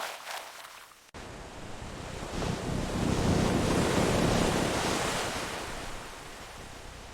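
Ocean surf: after a few short clicks, a wave's rushing wash starts suddenly about a second in, swells to its loudest midway and slowly fades.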